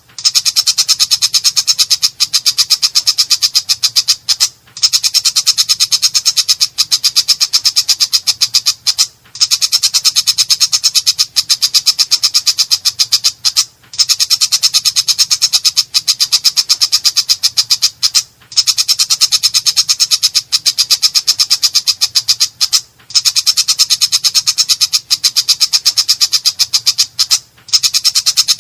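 Long-tailed shrike (cendet) giving a harsh, rasping chatter of rapid repeated notes. The notes come in long runs broken by a brief pause about every four and a half seconds.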